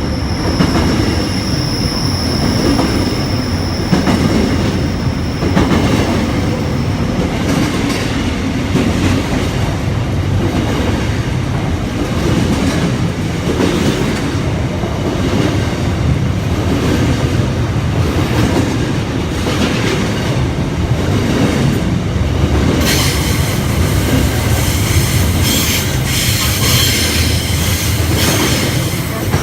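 Freight train rolling steadily past a station platform, its wheels clacking over rail joints at an even rhythm. A high steady wheel squeal sounds through the first several seconds, and a brighter high-pitched rushing comes in near the end.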